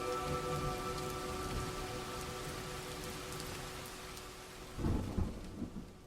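Heavy rain falling as a steady hiss with scattered drop ticks, under sustained held music tones. Two low thumps come about five seconds in, and the whole sound fades out near the end.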